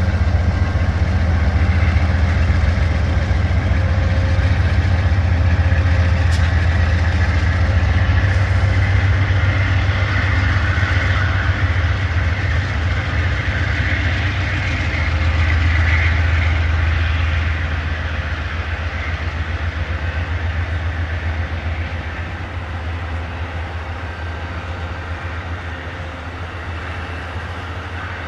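Passing train on a mountain grade: a heavy low rumble of diesel locomotive engines with rail and wheel noise above it. It stays loud for about the first seventeen seconds, then fades steadily as the train draws away.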